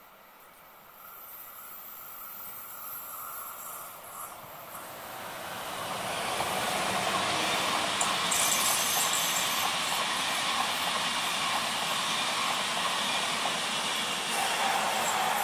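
ÖBB Railjet passenger train approaching and passing at speed: the rolling noise of its wheels on the rails builds over the first several seconds and then stays loud as the coaches go by.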